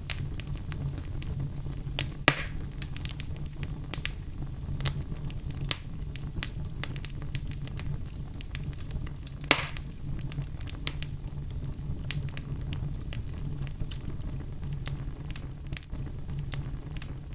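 Wood logs burning in a fireplace: a steady low rumble of flame with frequent sharp crackles and pops, two of them louder, about two seconds in and near the middle.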